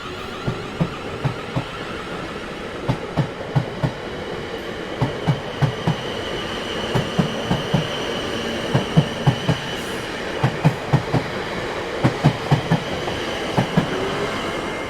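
Train cars rolling past, their wheels clacking over rail joints in quick groups of knocks over a steady rumble.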